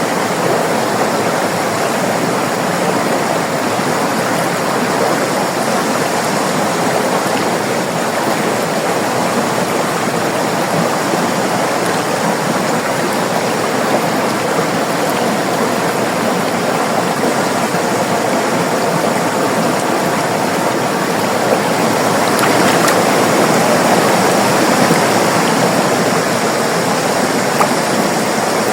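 River water flowing and rushing steadily, swelling a little louder for a few seconds about two-thirds of the way through.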